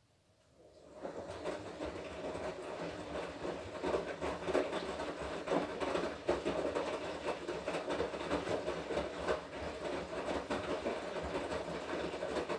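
Washing machine drum turning during the wash cycle, laundry tumbling inside with a steady motor hum and rattling. It starts about a second in and stops at the end.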